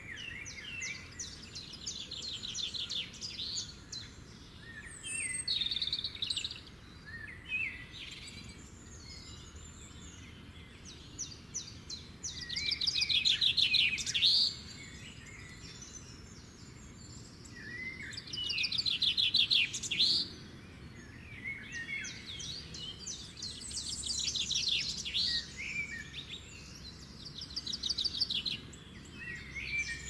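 Birds singing and chirping in bouts of fast, high trills, with the loudest bouts about halfway through and again about two-thirds of the way in.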